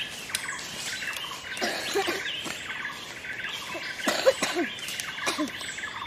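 Many forest birds chirping and calling at once, a dense run of short, high chirps and trills with no pause.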